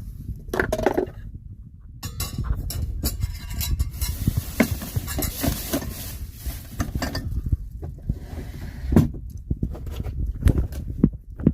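Clinks and knocks of kitchenware being handled, scattered through the stretch, over a steady low rumble.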